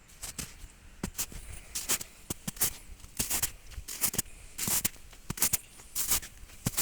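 Footsteps crunching at a walking pace, each step a crisp crackle, roughly two a second.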